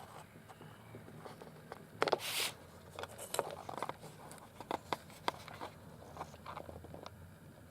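Handling noises of close hand work on a small part: light clicks, taps and scrapes, with one brief hissing scrape about two seconds in.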